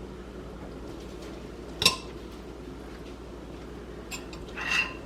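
Kitchen dishes and utensils being handled: one sharp knock of a utensil against a dish about two seconds in, then a few light clicks and a short scraping rustle near the end.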